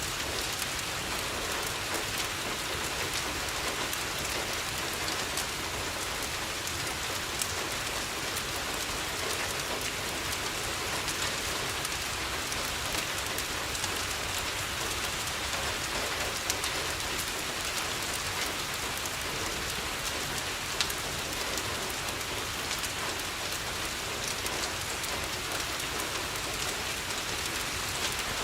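Steady rain falling on a window, a constant hiss peppered with fine ticks, with a wood fire crackling underneath; two sharper single pops stand out in the second half.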